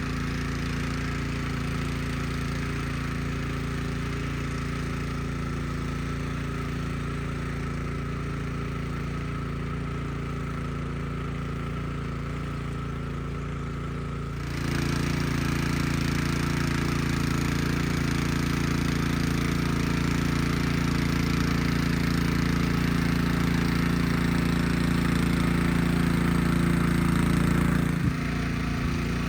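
Craftsman rear-tine garden tiller's small engine running steadily while tilling. About halfway through it gets louder and takes on a higher tone, then drops back abruptly just before the end.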